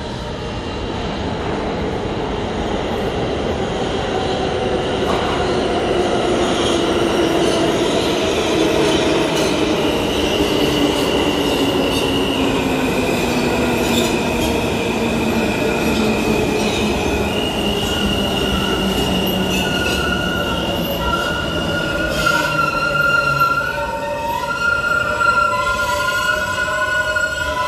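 NYC subway E train pulling into the station and braking. The rumble builds as it arrives, and the motor whine falls steadily in pitch as it slows. High wheel and brake squeal comes in from about a third of the way through and lasts to the end.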